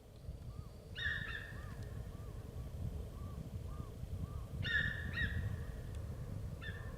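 Sika deer calling: short, high-pitched, double-note calls, three of them, about a second in, near the middle and near the end.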